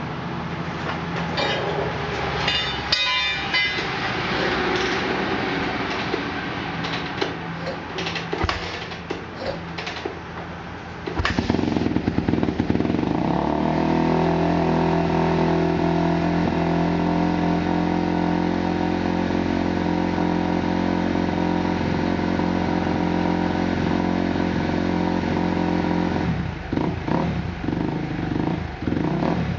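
Kawasaki KX250F dirt bike's four-stroke single-cylinder engine running, fitted with a Vortex X10 ignition on setting 233. It runs unevenly at first, gets louder about eleven seconds in and holds a steady pitch for some thirteen seconds, then turns uneven again near the end.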